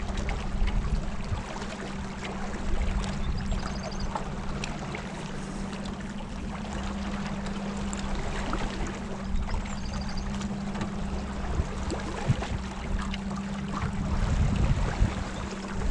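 Motorboat engine running steadily with a constant hum, over water rushing past the hull.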